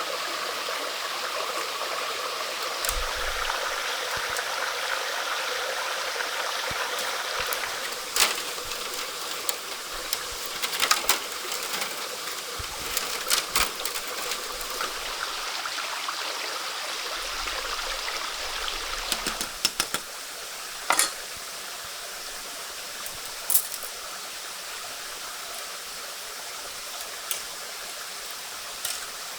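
Steady running stream water, with scattered sharp clicks and knocks.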